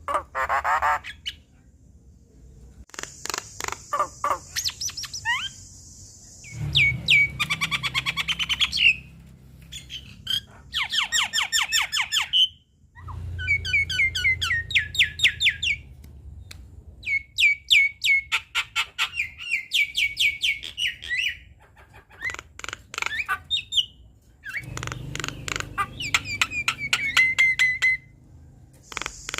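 Javan myna singing in its full chattering song: rapid runs of sharp, repeated notes and harsh squawks in bursts of two to three seconds, separated by brief pauses.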